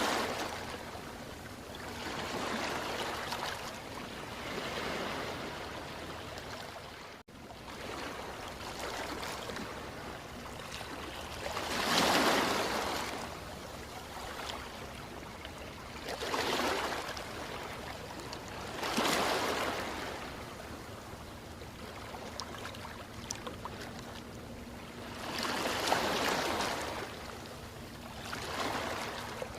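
Ocean waves surging and washing over the shore in slow swells every few seconds, over a constant hiss of water, with a momentary drop-out about seven seconds in.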